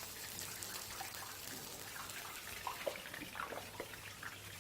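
Marinated chicken pieces sizzling faintly on a hot grill: a steady sizzle with scattered small crackles, over a low steady hum.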